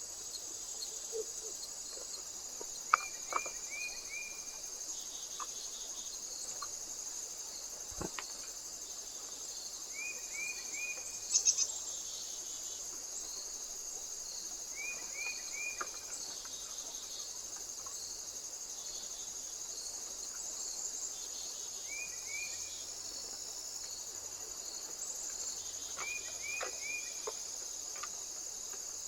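Steady high-pitched insect chorus, with short runs of three or four quick bird chirps repeating every few seconds. A few sharp clicks stand out, the loudest about three seconds in and a quick cluster near eleven seconds.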